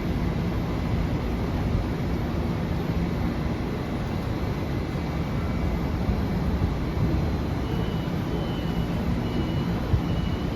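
Steady rumble of a Long Island Rail Road train running through the station, with a faint high tone coming and going in the last few seconds.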